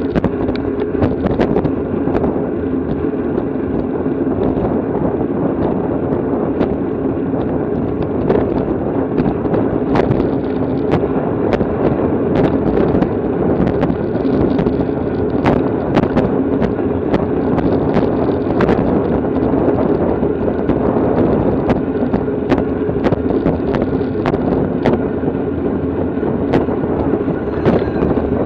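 Steady wind noise on the microphone of a camera riding on a racing bicycle, a loud, continuous rush with frequent sharp clicks and knocks scattered through it.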